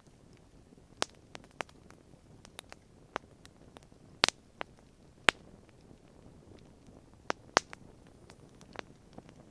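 Wood campfire crackling: irregular sharp pops and snaps, a few much louder than the rest, over a faint low hiss.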